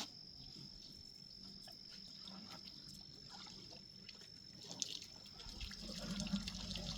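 Faint trickling and splashing of water at a waterhole where elephants are drinking, with a steady high-pitched whine and a low rumble building near the end.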